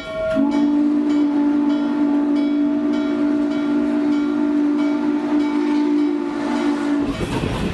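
Steam locomotive chime whistle, the N&W 611's Hancock whistle, sounding one long blast of several notes at once for about seven seconds, just after a short earlier blast ends. Near the end the whistle cuts off and the train's rumble on the rails takes over.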